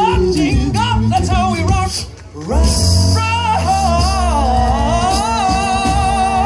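A cappella vocal group singing a quick run of notes, breaking off briefly about two seconds in, then holding a long closing chord with a deep bass voice underneath.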